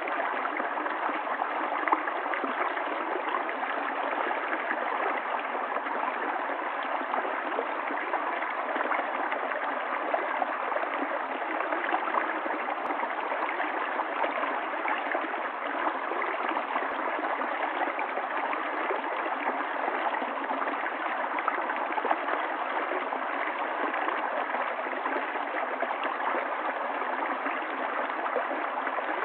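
A stream's water flowing in a steady, even rush that does not change.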